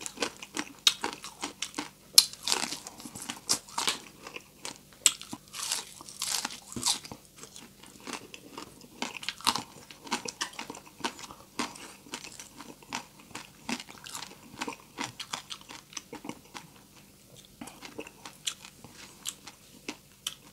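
Close-up crunching and chewing of crispy chicharon bulaklak (deep-fried pork intestine). Sharp crackly crunches come thick and fast for the first several seconds, then thin out into slower, softer chewing.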